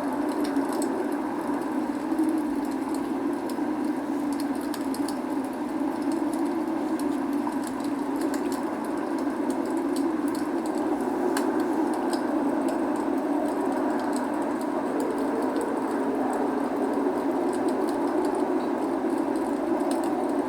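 Log fire burning with scattered small crackles and pops over a steady rushing hiss of rain.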